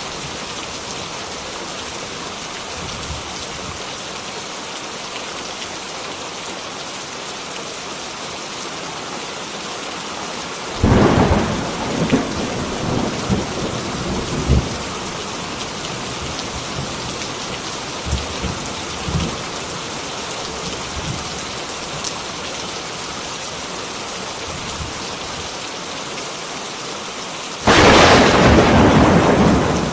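Heavy rain falling steadily, with two sudden claps of thunder: one about a third of the way in that rumbles on for a few seconds, and a louder one near the end.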